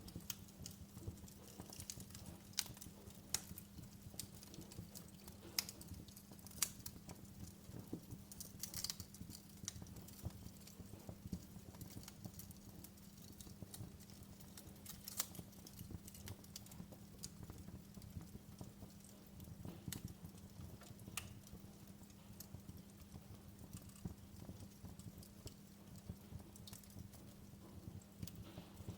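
Wood fire in a fireplace crackling: irregular sharp pops and snaps, a few louder ones standing out, over a steady low hum.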